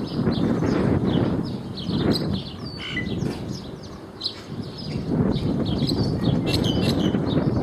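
Small birds chirping: many short, quick chirps, one after another. Under them runs a loud, uneven low rumble, which is louder than the chirps.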